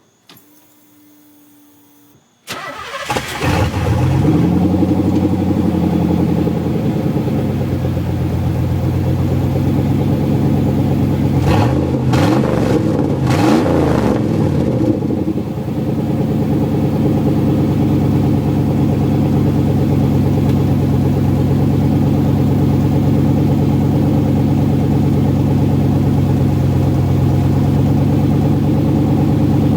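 Exhaust of a 1988 Pontiac Firebird through a Stainless Works CR33 three-chamber muffler. The engine starts about two and a half seconds in and settles from a fast idle, gets a few short revs about halfway through, then idles steadily.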